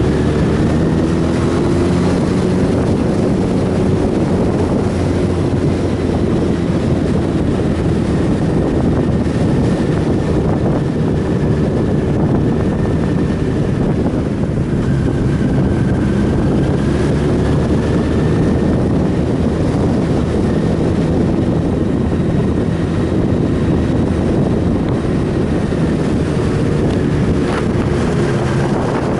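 Motorcycle under way at a fairly steady speed: the engine runs with only slight changes in pitch beneath a heavy, constant rush of wind over the microphone.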